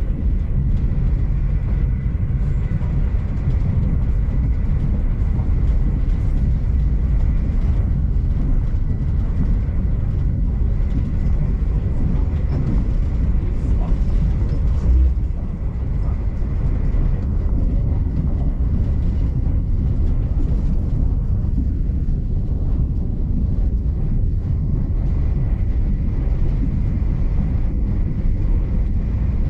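A V/Line passenger train running, heard from inside the carriage: a steady low rumble of wheels and running gear with a faint thin whine above it. A single low bump comes about halfway through.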